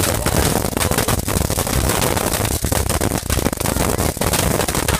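Firecrackers going off in a loud, rapid, unbroken crackle of many small bangs.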